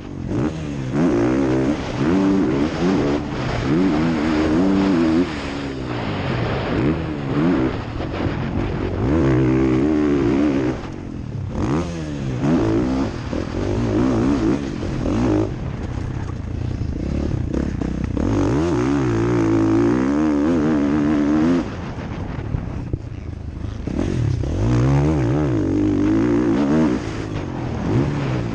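Motocross bike engine recorded onboard, revving up and dropping back again and again as the rider accelerates, shifts and slows around the track, with rushing noise.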